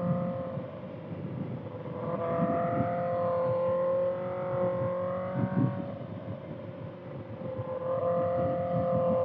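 Kawasaki ZX-6R's inline-four engine with a Voodoo Racing slip-on exhaust, held at a steady high-revving note while riding, over rushing wind. The note fades and swells again twice, rising a little in pitch midway.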